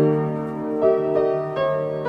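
Piano playing a song sketch: a chord struck at the start with its bass note held, then three single melody notes played over it.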